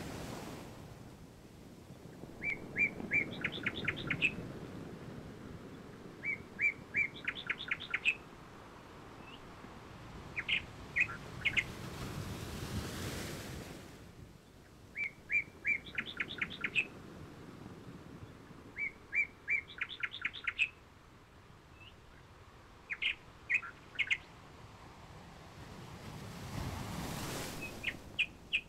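Small birds chirping in short quick trills, a few groups every few seconds, the whole sequence repeating about every 12 seconds, over a soft rushing noise that swells and fades twice.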